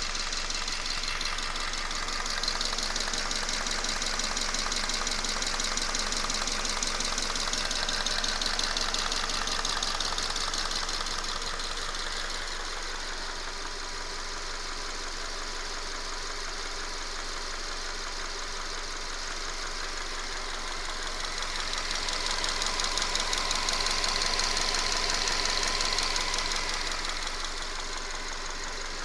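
Subaru FB25 2.5-litre flat-four engine idling warm with a fast, even tapping running through it, swelling louder twice. The owner puts the tapping down to worn camshafts, not a piston.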